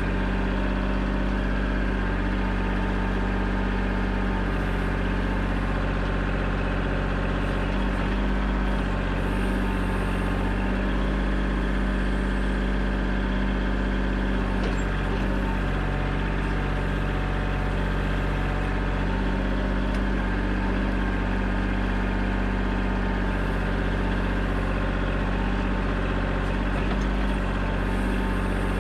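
The engine of an earth-digging machine running steadily, a deep continuous drone that holds an even pitch throughout.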